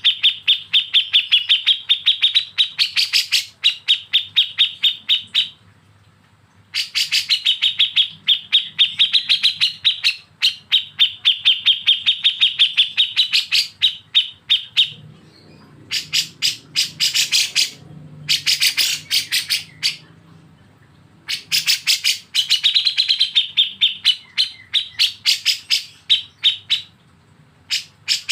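Bulbul giving its rapid chattering 'besetan' song: fast trains of sharp notes, about ten a second, in bursts of several seconds with short pauses between them. A faint low hum lies underneath.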